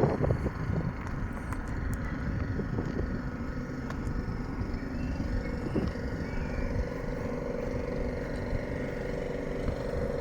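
Road traffic at a light-controlled junction, with wind rumbling on a phone's microphone. A steady engine-like hum comes in about halfway through.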